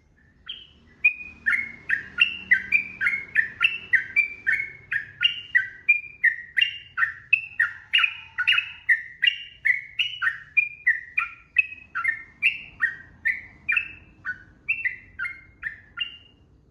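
Yellow-vented bulbul singing a long, unbroken string of quick chattering notes, about two to three a second, starting about half a second in and stopping shortly before the end.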